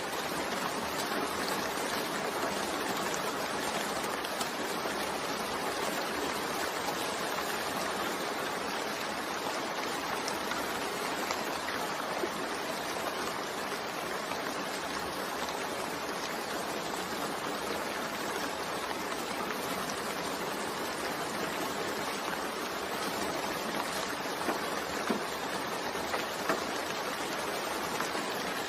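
Steady rain falling, an even unbroken hiss, with a few sharper drop ticks near the end.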